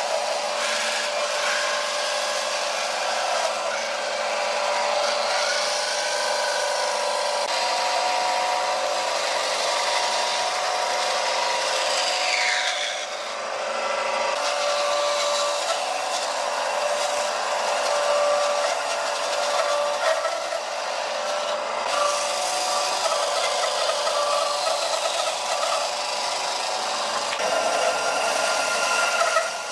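Power tool running steadily as it works wood, with a continuous motor tone and rubbing, cutting noise; its pitch briefly sweeps down about halfway through.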